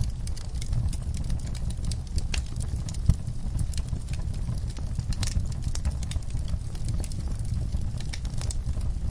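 Wood fire burning in a fireplace: a steady low rumble with scattered crackles and pops, and one louder pop about three seconds in.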